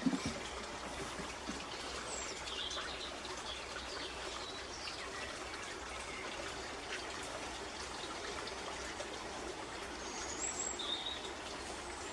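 Scattered short bird calls and chirps over a steady background hiss.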